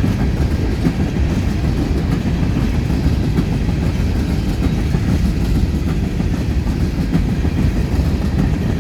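Freight train cars rolling past at speed: a loud, steady rumble of steel wheels on rail with a clickety-clack over the joints.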